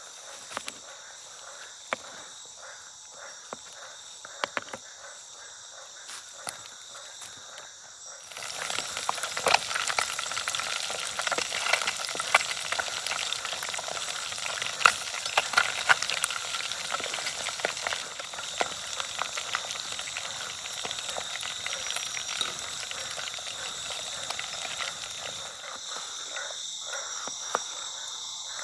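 Food dropped into hot oil about eight seconds in, then sizzling and crackling steadily in the pan. Steady chirring of insects runs underneath.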